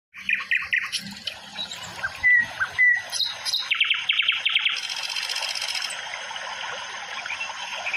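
Wild birds chirping and trilling, with a rapid run of chirps about four seconds in. A steady high insect buzz joins in the middle, and two sharp knocks fall between two and three seconds in.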